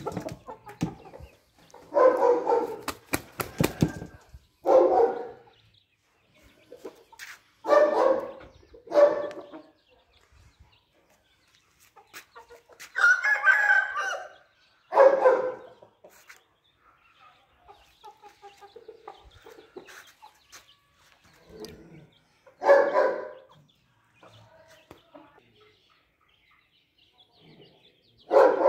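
Aseel chickens calling, a series of loud short calls about a second long, some close together and some with longer gaps between. About 13 seconds in comes a longer, higher-pitched call.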